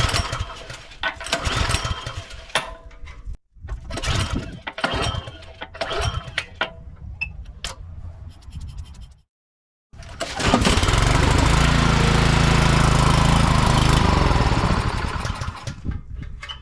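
Craftsman snowblower engine being pull-started with the choke off: recoil pulls with uneven sputtering firing. Later the engine catches and runs steadily for about four seconds, then slows and dies, a sign the two-year-old fuel has left the carburetor fouled.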